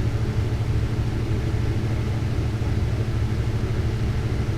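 Lampworking bench torch burning with a steady low roar.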